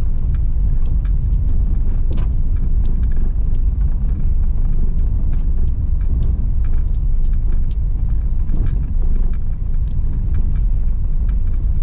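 Car driving on a rough, unpaved rocky track: a steady low rumble of engine and tyres, with many scattered short clicks and knocks throughout.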